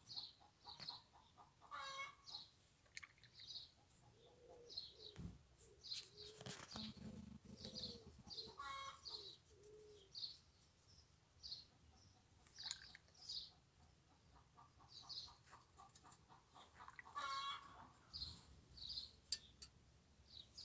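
Faint birdsong: a small bird repeating a short high chirp about once a second, with a longer, harsher bird call three times and a few lower calls.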